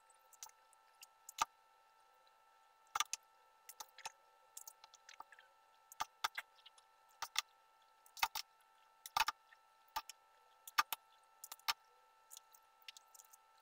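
Hands rolling soft poğaça dough into balls and setting them down on a tray lined with baking paper: irregular soft taps and squishes, about fifteen, over a faint steady hum.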